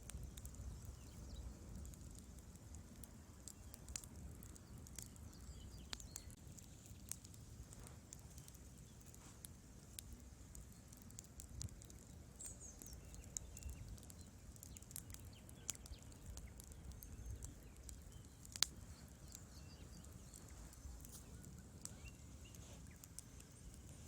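Wood fire crackling: irregular sharp pops and snaps from the burning logs over a faint low rumble of flame, with one louder pop about three quarters of the way through.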